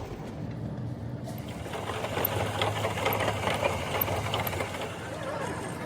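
A machine running with a steady low hum and a rapid mechanical clatter, the clatter busiest in the middle.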